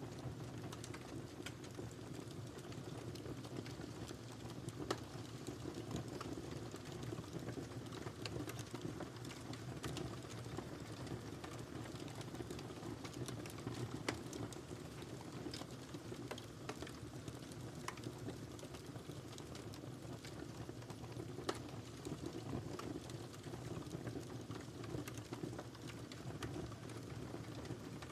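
Wood fire burning in a fireplace: a steady low rushing of flames with frequent small crackles and a few sharper pops.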